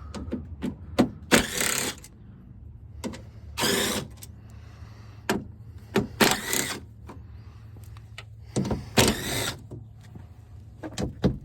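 Socket wrench ratcheting in four short bursts, with scattered clicks and knocks in between, as bolts are worked off the door panel. A steady low hum sits underneath.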